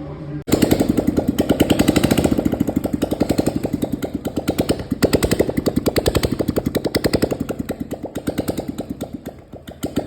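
Motorcycle engine of a Bullet build running with an even beat of exhaust pulses, roughly ten a second. It cuts in about half a second in, swells a little around two and five seconds in, and settles lower near the end.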